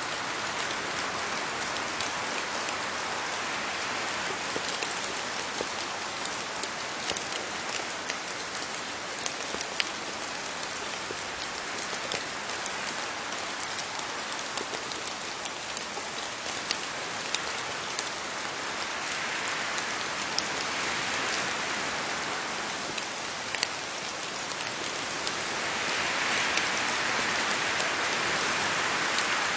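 Steady rain falling on leaves, an even hiss with scattered sharp drop ticks, growing heavier near the end.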